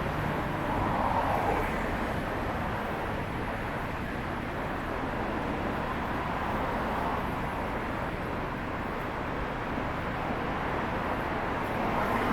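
Steady city street ambience dominated by passing traffic, an even wash of vehicle noise with no single standout event.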